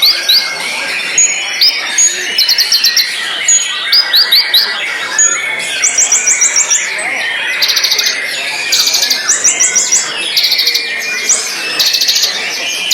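White-rumped shama (murai batu) singing: quick runs of short, high, repeated chirps one after another, over a continuous layer of lower twittering.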